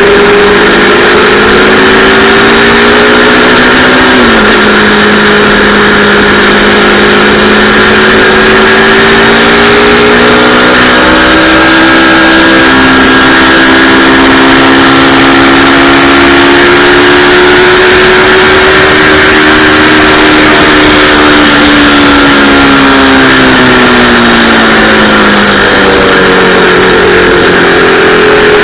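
Yamaha R3 321 cc parallel-twin engine pulling hard around a racetrack: the revs climb, drop sharply about four seconds in with a gear change, then rise and fall through the corners and climb again near the end, over a steady rush of noise.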